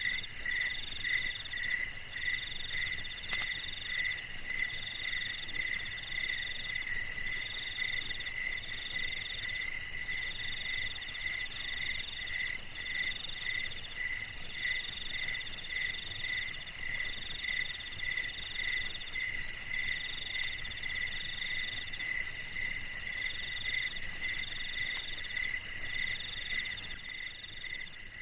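Chorus of insects such as crickets: several overlapping chirping trills at different high pitches. A fast high pulsing trill and a slower lower chirp run steadily, while a middle-pitched trill comes in phrases of a second or two with short breaks.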